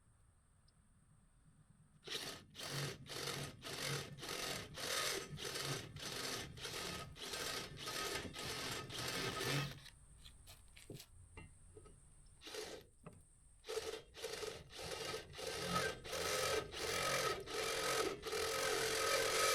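Rhythmic back-and-forth scraping strokes of a hand tool on steel, about two strokes a second, starting about two seconds in, pausing briefly in the middle, then resuming.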